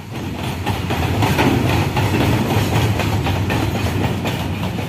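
Goods train of open freight wagons rolling past on the rails: a steady rumble and clatter of wheels that rises over the first second.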